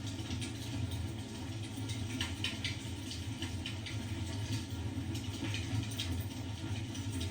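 Fireplace crackling, with irregular small sharp pops over a steady low hum.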